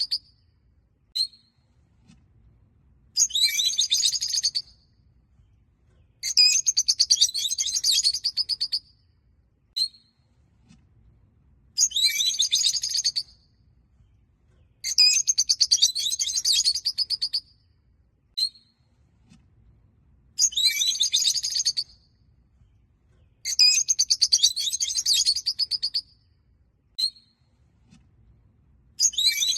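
Rosy-faced (peach-faced) lovebirds chattering: bursts of fast, shrill chirping a second or two long come every few seconds, with short single chirps in between.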